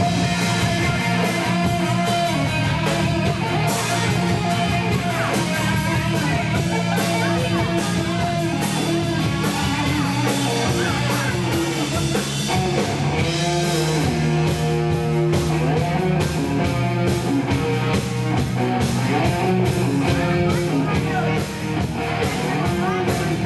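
Live rock band playing an instrumental stretch, led by electric guitar over bass and drums with a steady beat, recorded loud and distorted from the crowd.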